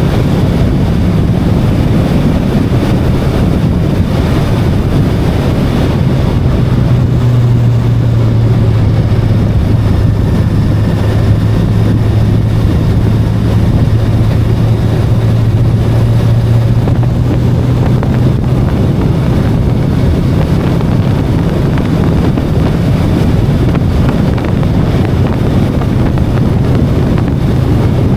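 VOGE 525DSX parallel-twin motorcycle engine running at a steady cruising speed, under heavy wind rush on the microphone. The engine note holds steady and is strongest through the middle of the stretch.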